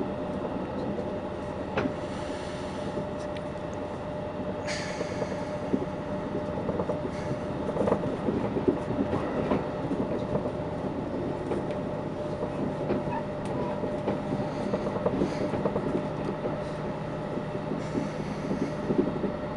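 Steady running noise of a moving train heard from inside the carriage: wheels on rails and a constant low hum, with a few brief higher hissing sounds, the strongest about five seconds in.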